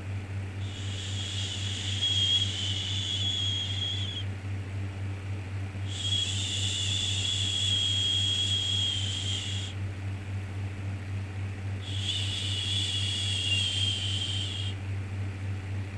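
Long, repeated 'shhh' shushing sounds, each held about three to four seconds with a short pause between, over a steady low hum. A baby-soothing shush: three full shushes, with a fourth starting near the end.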